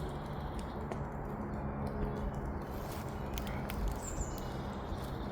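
Steady outdoor background noise with scattered light taps, and a small bird giving one short, high chirp about four seconds in.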